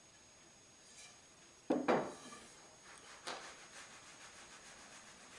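Fence parts being handled: two sharp knocks close together a little under two seconds in, a lighter knock a second or so later, then faint ticking and rubbing.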